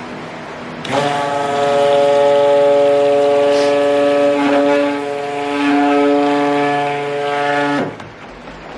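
Electric stick blender running for about seven seconds, starting about a second in and cutting off near the end, with a brief dip in the middle. It is blending lye water into melted oils and butters to emulsify cold-process soap batter.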